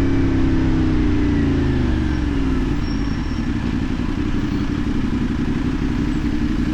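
CFMoto 450NK's parallel-twin engine easing off, its pitch falling over the first couple of seconds, then running steadily at a lower pitch, with road noise underneath.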